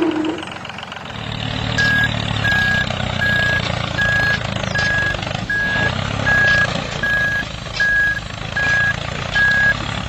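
A vehicle engine running low, with a backup alarm beeping at an even pace from about two seconds in, roughly one beep every three-quarters of a second, eleven beeps in all.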